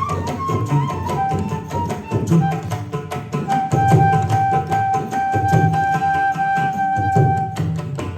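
Live Carnatic music: a flute plays a melody that steps down in pitch and then holds one long note from about three and a half seconds in to near the end, over a steady run of hand-drum strokes.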